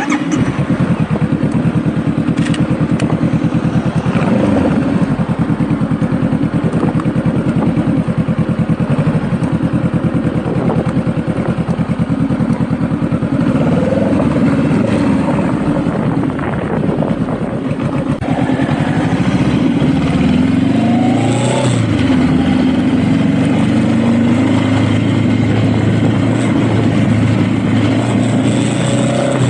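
Honda Rebel motorcycle engine running while riding, its note rising and falling with the throttle and climbing in pitch about twenty seconds in.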